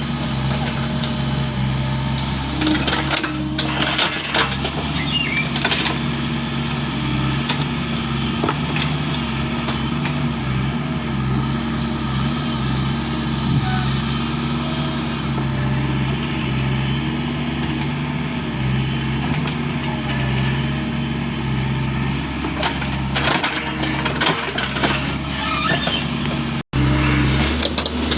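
Excavator's diesel engine running steadily under load, its pitch shifting a little as it works. Clusters of clanks and knocks come a few seconds in and again near the end, and the sound cuts out for an instant just before the end.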